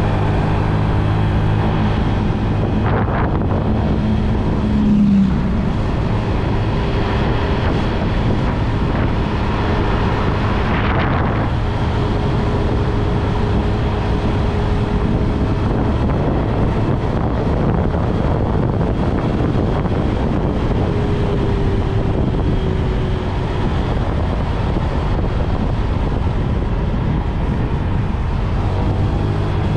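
Motorbike engine running under way, with wind rushing over the microphone and road noise throughout.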